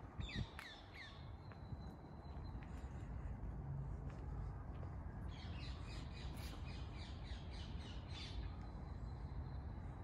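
Birds calling: a short burst of harsh, high calls in the first second, then a longer run of about ten repeated calls at roughly three a second from about five to eight and a half seconds in, over a low steady background rumble.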